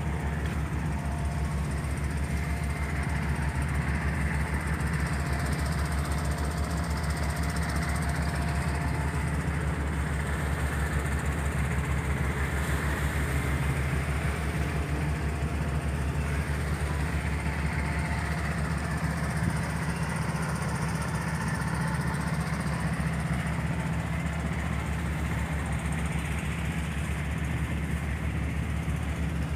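Diesel engine of a motor riverboat running steadily under way, a constant low drone with a fast even pulse, heard from on board.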